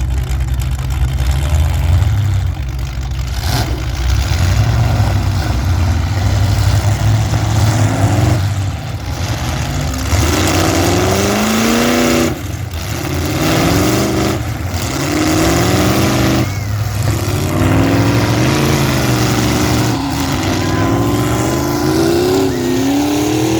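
Demolition derby cars' engines revving hard over and over, each rev rising in pitch and then dropping off, over a steady low engine rumble from several cars running at once.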